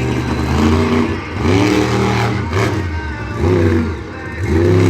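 Monster truck engine revving hard, the throttle lifted and reapplied three times so the pitch dips and climbs again with each blip.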